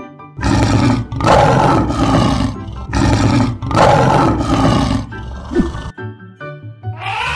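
Lion roaring: one long roar of about five seconds that comes in several surges, over background music. Near the end a different call begins, its pitch rising and then falling.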